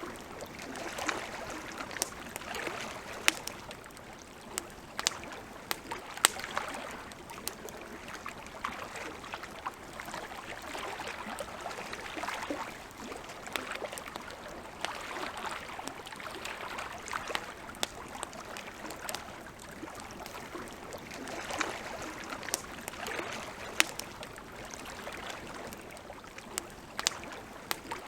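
Wood campfire crackling, with sharp pops scattered irregularly throughout over a soft hiss that swells and fades every second or two.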